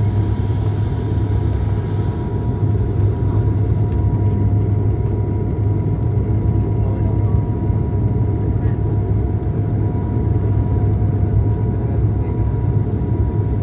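Airplane noise during a landing approach: a steady low rumble with a faint, steady high tone riding on top, unchanging throughout.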